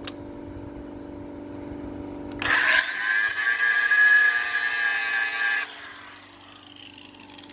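Power grinder cutting into the steel of a truck frame around a stubborn rivet: it starts abruptly, runs loud under load for about three seconds, then is lifted off and spins down with a high whine that falls steadily in pitch.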